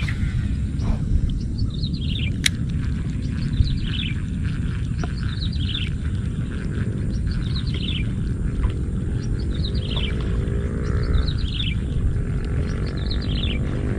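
A bird calling over and over, each call a short falling run of high notes, repeating about every second and a half over a steady low rumble.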